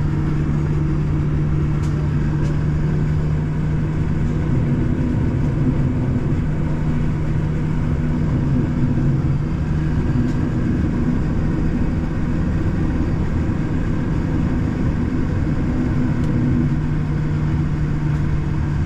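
Steady cabin drone inside a Boeing 787-9 airliner on the ground: a low, even hum that wavers slightly a few seconds in and again near the end, without rising into a takeoff roll.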